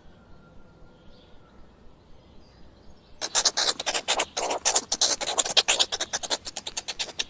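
A cat scratching: a fast run of rasping scratch strokes, about eight a second, starting about three seconds in.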